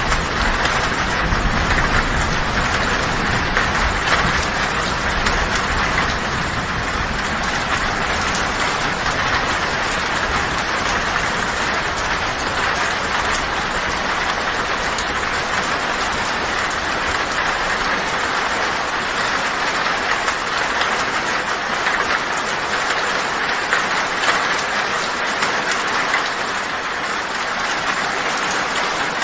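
Heavy rain drumming steadily on a tin (corrugated metal) roof, with a low rumble of thunder dying away over the first half.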